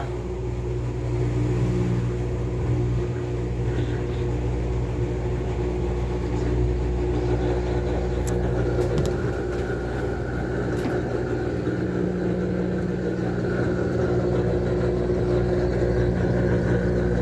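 Whirlpool washing machine spinning a heavy load of towels: a steady motor and drum hum, with a higher whine coming in about two thirds of the way through.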